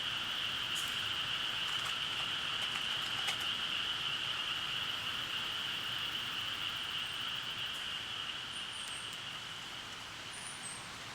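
A steady, high buzzing trill from a calling animal, fading a little near the end, with a few faint high chirps near the end.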